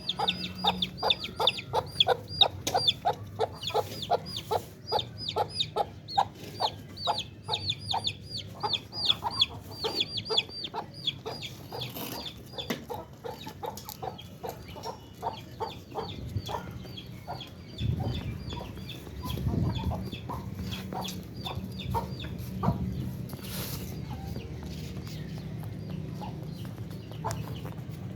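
Chickens clucking and calling, with a dense run of short, rapid high chirps, several a second, that thins out about halfway through. A low steady hum and a couple of dull bumps follow in the second half.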